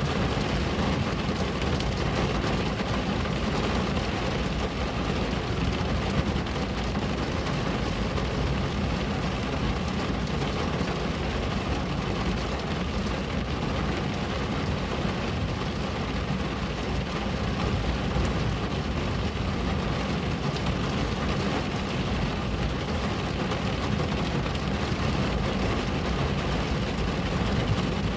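Steady rain falling on a window: an even, unbroken hiss with a low rumble beneath it.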